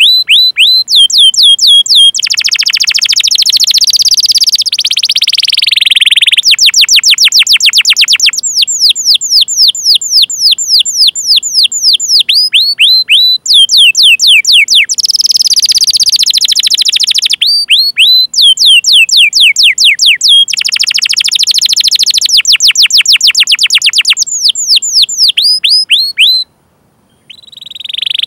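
Domestic canary singing a long song: runs of fast, sharply falling 'cuit cuit' chirps alternate with dense rolling trills, loud and nearly unbroken, with one pause of about a second near the end.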